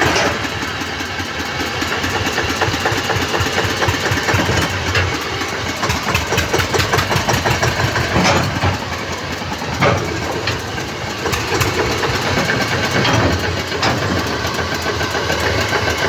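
Eicher tractor's diesel engine running steadily with an even pulsing beat, and a couple of sharp clicks a little past halfway.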